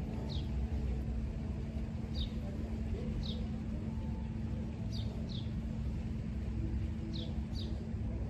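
Outdoor background: a steady low rumble with a constant hum under it, and a bird giving short, high, falling chirps every second or two.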